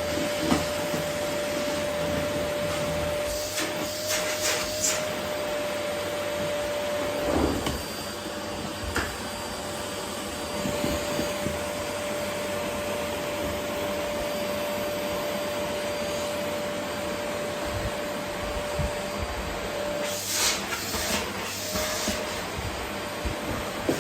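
Vacuum cleaner running steadily on a wooden floor, its motor giving a constant whine over the airflow hiss. Short bursts of clatter come a few seconds in and again near the end as the nozzle picks things up.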